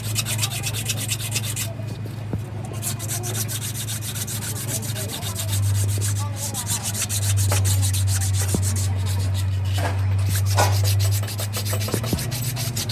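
Continuous abrasive rubbing, like sanding, on an engine part being cleaned or reconditioned, over a steady low hum, with a few brief clicks in the second half.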